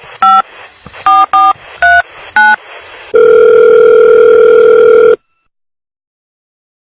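Telephone keypad tones as a number is dialled, five short two-note beeps in the first two and a half seconds, then about two seconds of steady ringing tone on the line as the call connects, followed by silence.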